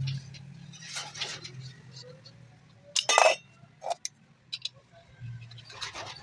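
Metal clinks and clicks from the steel chutney jar of a mixer grinder and its parts being handled during repair. The loudest is a sharp, ringing clink about three seconds in, followed by a few lighter clicks.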